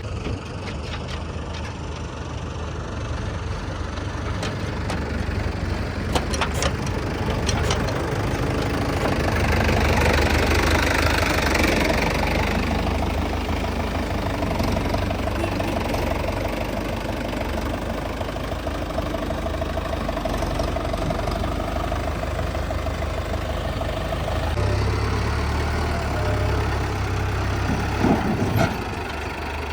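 Tractor diesel engines running steadily. About ten seconds in, the sound grows louder for a couple of seconds, as when the engine is put under load. A few sharp knocks come early on, and one louder knock comes near the end.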